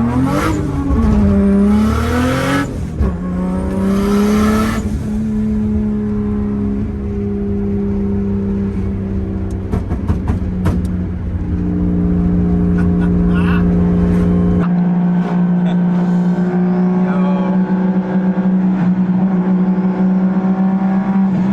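Turbocharged car engine blipped three times, each rev followed by a hissing whoosh from its aftermarket blow-off valve venting. It then settles into a steady idle.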